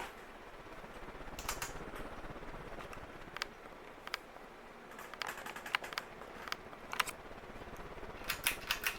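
Harbor Breeze Southern Breeze ceiling fan running with a steady low whoosh, with scattered light clicks and ticks and a quick run of clicks near the end.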